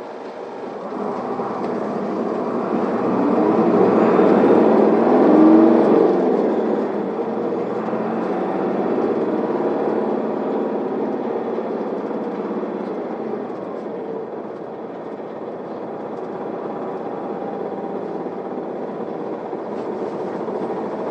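Isuzu Erga city bus heard from inside the cabin while driving: engine and road noise build up over the first five seconds or so, then run steadily and ease off a little past the middle as the bus nears its stop.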